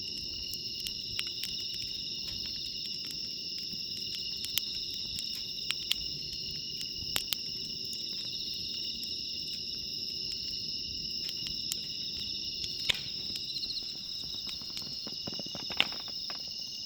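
Bell crickets (suzumushi) singing steadily in high, bell-like trills, over a crackling wood campfire that snaps and pops sharply every so often, with a couple of louder pops near the end.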